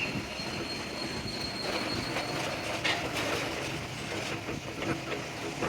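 Steady metalworking noise from machining or grinding steel, with a thin high whine through the first couple of seconds and a few light knocks.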